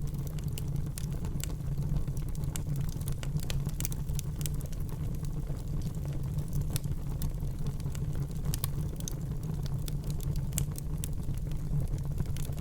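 Crackling fire: a steady low rumble of flames with irregular sharp pops and crackles.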